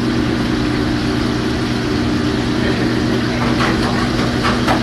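A steady, loud machine hum with several held low tones, and a few light knocks or clatters near the end.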